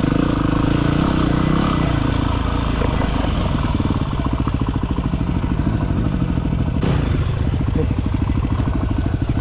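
Enduro dirt bike engine running under throttle at low speed over rough ground, its firing pulses steady, with higher revs in the first couple of seconds that then settle lower. A single short knock about seven seconds in.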